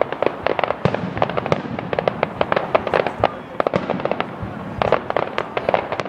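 Fireworks display exploding in a rapid, irregular barrage of sharp bangs and crackles, several a second.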